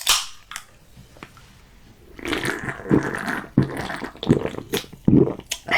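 A brief fizz from a freshly opened can of Barr Cherryade, then the drink being gulped down in about five swallows, each less than a second apart.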